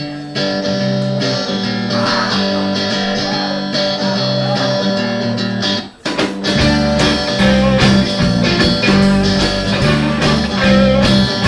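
Live guitar playing the instrumental intro of a blues-rock song. About six seconds in the playing breaks off briefly, then comes back fuller, with a deep bass line filling in underneath.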